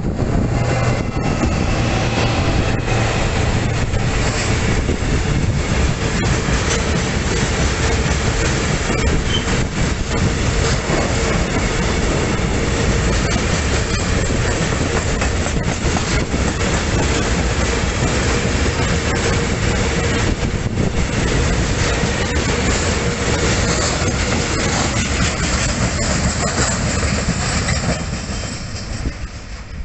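An SNCF BB 75000 diesel-electric freight locomotive passes close with its engine running, followed by a long train of covered freight wagons rolling by, wheels knocking over rail joints amid a steady rumble. A faint steady whine sounds under the rumble through the middle, and the noise fades over the last couple of seconds.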